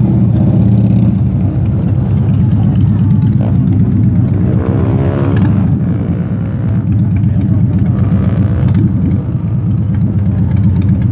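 Sports-car engines running at low speed as cars file past, with one engine, most likely the nearby red Ferrari 458 Italia's V8, revving up and back down briefly about four to five seconds in.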